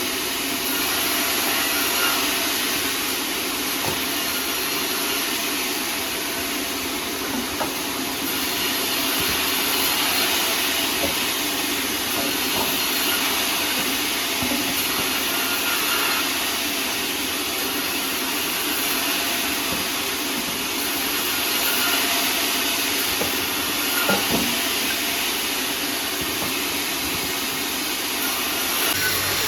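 Sawmill saw running steadily while cutting sengon timber: a continuous hissing machine noise over a low steady hum, swelling slightly now and then.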